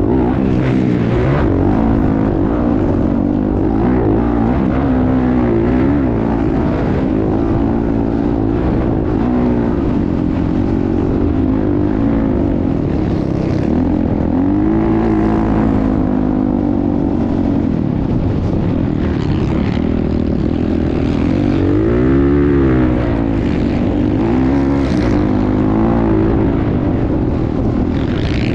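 Motocross bike engine running hard at full throttle, its pitch rising and falling again and again as it revs and shifts, over a constant rushing noise. The biggest rise and fall comes about three quarters of the way through.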